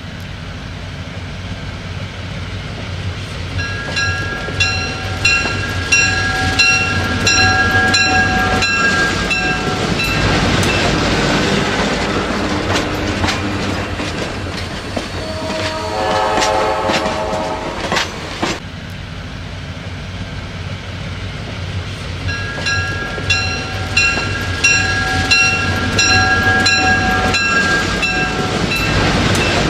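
Diesel passenger train running past with a steady rumble and wheel clatter. Its horn sounds a long chord while a bell rings in quick even strokes, about four seconds in and again near the end, with a shorter horn call in the middle.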